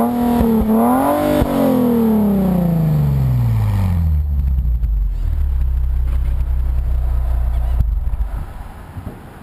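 Nissan 370Z's 3.7-litre V6 through an HKS Hi Power titanium exhaust, blipped twice in quick succession, then the revs falling away over about three seconds into a steady low idle. Near the end the engine sound stops.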